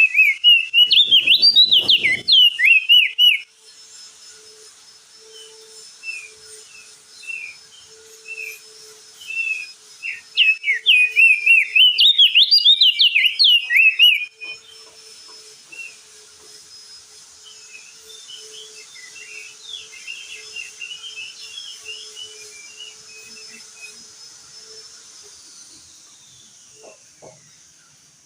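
Crested white-eye (opior jambul) singing: two loud bursts of rapid, twittering song, each a few seconds long, about ten seconds apart, with softer scattered chirps between and after them. A steady high hiss runs beneath.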